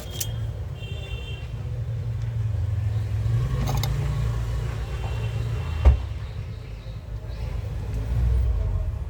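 Low steady rumble, swelling and easing, with a single sharp click about six seconds in.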